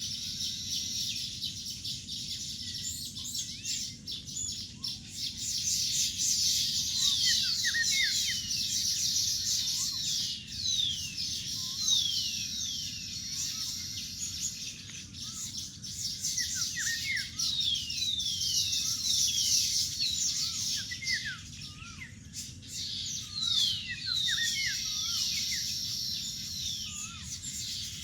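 A colony of baya weavers chattering continuously, with a dense run of high calls and many quick downward-sliding chirps repeated throughout.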